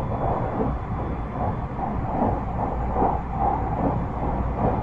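Onboard running noise of a JR 223-5000 series electric train: a steady rumble of wheels on the track.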